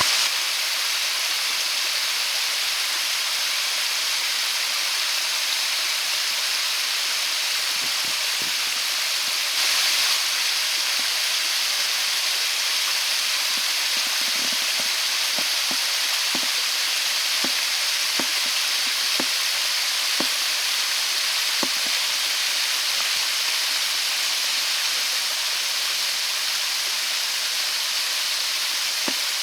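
Waterfall water rushing in a steady, even hiss, with a few faint soft knocks scattered through the middle.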